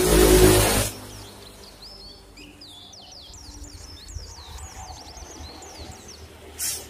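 Small birds chirping in quick, repeated high calls, after a loud rush of noise with a low hum that cuts off about a second in.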